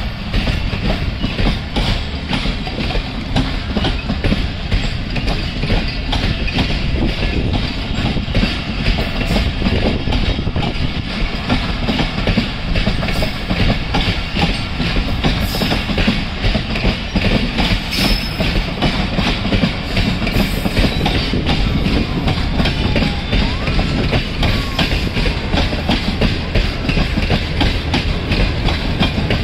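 Passenger train coaches rolling past on the track, their wheels clacking steadily and loudly over the rail joints.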